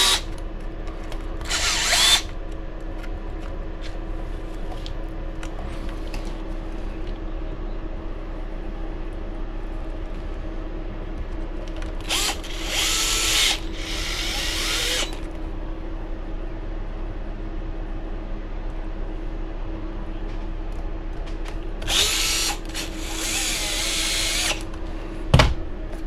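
Small cordless power driver whirring in three short bursts as it runs in screws while mounting the RC buggy's shocks. A short knock comes near the end.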